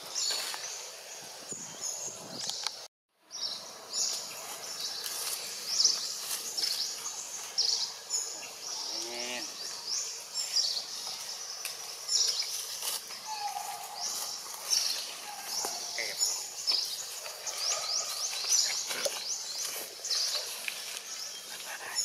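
Outdoor background with many short, high chirps from birds, each sliding down in pitch, with a few lower calls among them. The sound cuts out for a moment about three seconds in.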